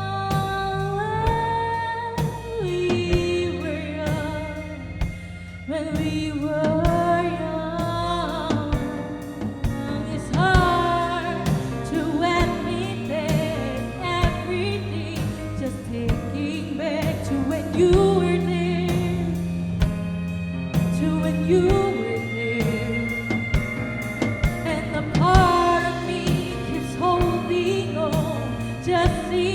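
Live rock band performing a pop ballad: a lead vocalist sings long, sliding held notes over drums, bass, electric guitar and keyboard.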